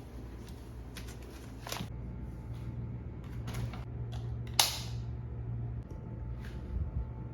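Light clicks and knocks of objects being handled, with one sharper click about halfway through, over a steady low hum.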